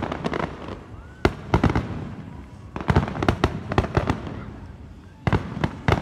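Fireworks display going off: four volleys of sharp bangs and crackling pops, each a rapid string of reports lasting about half a second, spaced a second or two apart.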